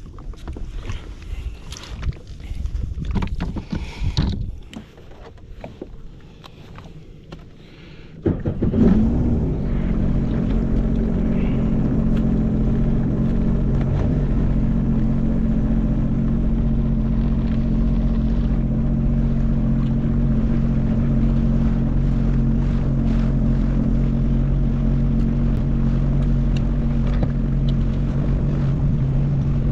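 Irregular knocks and rustling, then about eight seconds in a Sea-Doo jet ski's engine comes in abruptly and runs steadily at an even, low speed.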